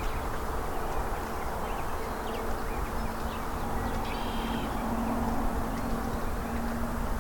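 A flying insect buzzing steadily from about three seconds in, over a low rumble, with a few faint bird chirps.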